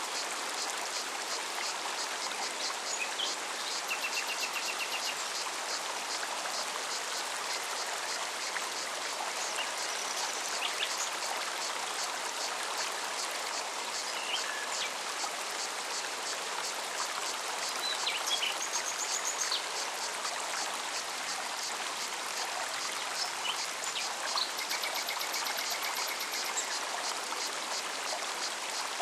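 Forest stream flowing steadily, with scattered bird chirps and short high trills over it, and a cicada's fast, even pulsing high in the background.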